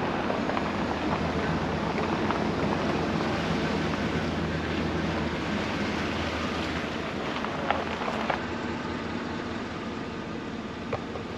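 Pickup truck creeping down a rough forest trail in low range: steady tyre noise over dirt and rock with a low engine hum, which drops away about eight seconds in.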